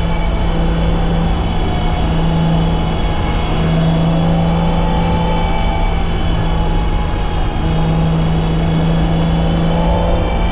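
BMW E30's M20B25 inline-six engine running at a steady, fairly high speed, its pitch holding almost level with only slight shifts, under a constant wash of road and tyre noise.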